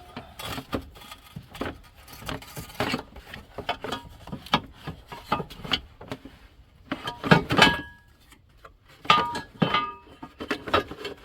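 Metal tools and car parts clinking and knocking as a part is worked loose in an engine bay, with louder ringing metal clanks about seven and nine seconds in.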